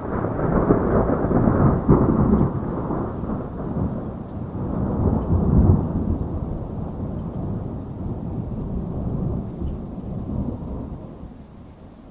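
A long roll of thunder over steady rain. It swells in the first couple of seconds, rumbles on with a second peak about five to six seconds in, then dies away near the end.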